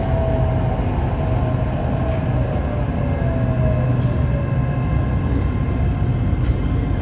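Inside a Bangkok SRT Red Line electric commuter train moving slowly along a station platform: a steady low rumble of the carriage and running gear. A faint whine slides down in pitch as the train slows.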